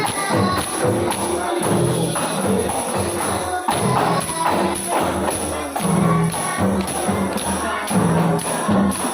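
Sholawat music: a young girl singing in a high voice over a steady beat of tambourine and frame-drum percussion.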